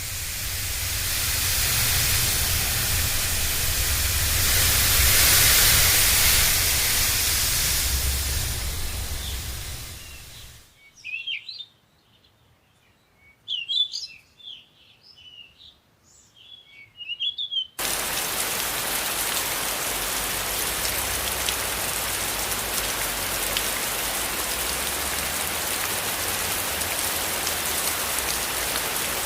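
Steady rushing noise that swells and then fades. Then several seconds of birds chirping in short, high calls, after which the rushing noise starts again abruptly.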